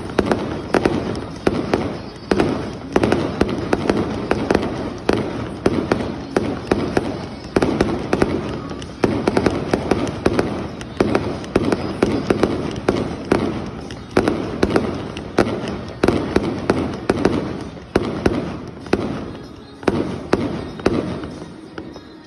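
Fireworks display: aerial shells bursting in quick succession, about one loud bang a second, each followed by dense crackling. The barrage thins out near the end.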